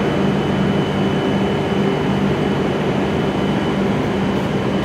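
W7-series Shinkansen standing at the platform, its onboard equipment running with a steady hum, low drone tones and a constant thin high whine.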